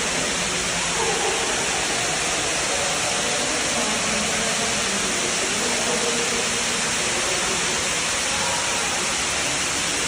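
Floodwater rushing in a loud, steady roar with no let-up.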